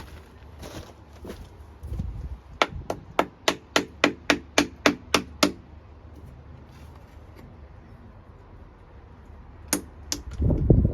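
A quick run of about a dozen hard hammer strikes, roughly four a second, then a pause and one or two more strikes near the end.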